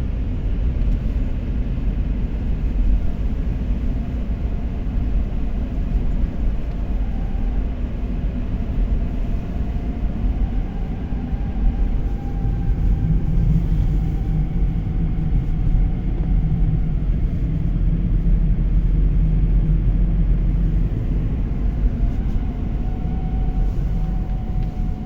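BMW F30 driving from a cold start in frost, heard from inside the cabin: steady low road and engine rumble, with a faint howl above it that drifts slowly up and down in pitch. The howl comes only while the car is cold and fades once it warms up; its source is unknown to the owner.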